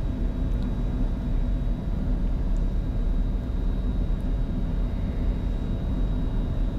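Steady cockpit noise of a Bombardier Challenger 605 jet on final approach: an even low rumble of airflow and engines with a faint, thin, high steady tone above it.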